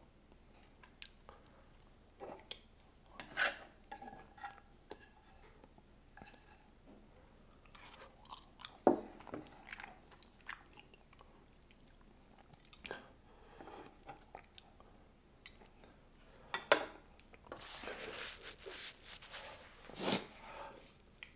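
A person chewing and eating spicy Korean fire noodles, close to a lapel mic, with scattered sharp clicks and mouth noises and a longer noisy patch near the end.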